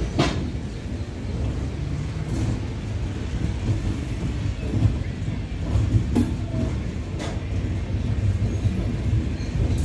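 A moving passenger train heard from its coach window: a steady rumble of the wheels on the track, with a few sharp, irregular clacks as the wheels cross rail joints.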